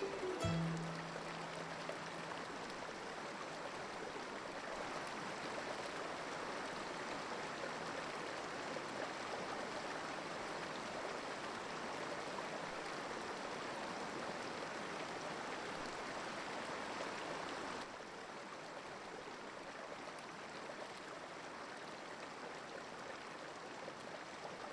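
Steady rush of flowing water, dropping a little in level about 18 seconds in.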